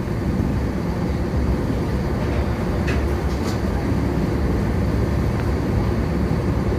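Steady low rumble of an old car ferry under way, with a couple of faint clicks about three seconds in.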